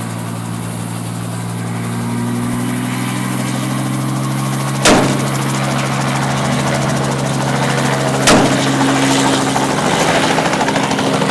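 Helicopter running with a steady droning hum that grows a little louder about two seconds in, broken by two sharp rifle shots about three and a half seconds apart.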